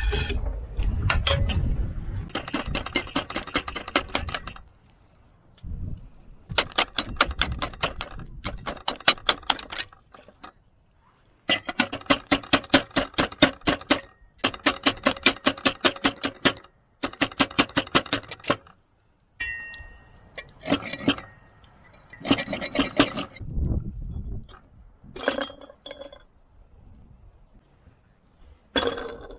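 Rapid clinking of tableware, several clinks a second, in repeated runs of one to two seconds with short pauses between them.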